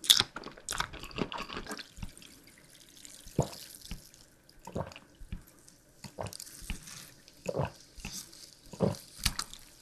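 Close-miked chewing of sugar-coated candy: a quick run of crunches in the first two seconds, then single bites and mouth sounds about every second or so.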